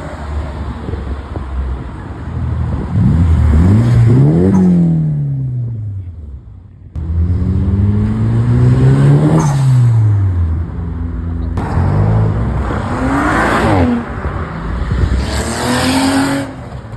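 Cars driving past one after another under hard acceleration, each engine's pitch climbing as it revs and then falling away as it passes, about four times.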